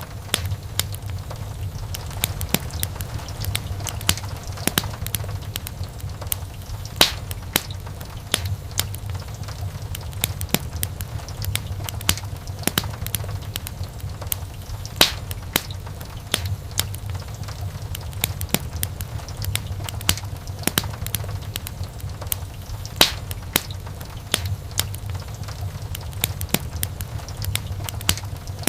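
Wood fire burning in a fireplace: irregular crackles and sharp pops of burning logs over a steady low rumble of the flames.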